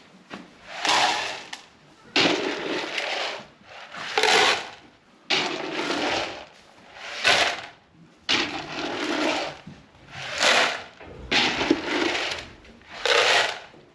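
Rhythmic scrubbing or scraping strokes made by hand, about one a second, each a coarse rush followed by a short pause, as a container is cleaned out.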